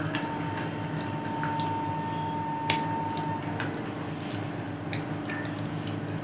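Close-miked chewing of chicken biryani eaten by hand: scattered wet, smacking mouth clicks over a steady low background hum.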